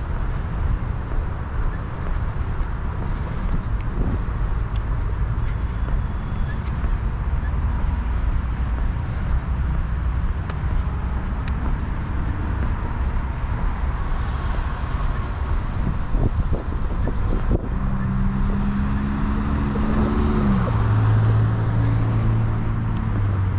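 Steady rumble of road traffic, with a vehicle engine's hum dropping in pitch and then holding steady near the end.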